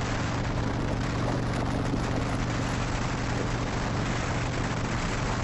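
Harley-Davidson Dyna Wide Glide's 103 V-twin running steadily at cruising speed, through slip-on exhausts with the baffles taken out, under a steady rush of wind.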